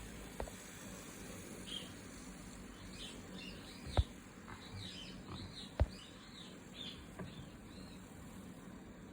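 Birds chirping in a quick run of short calls, with a few sharp clicks; the two loudest clicks come about four and six seconds in.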